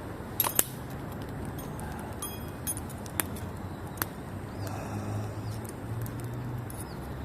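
Campfire of damp birch firewood burning, with several sharp pops and crackles scattered through, over a faint steady low hum; faint bird chirps come in about five seconds in.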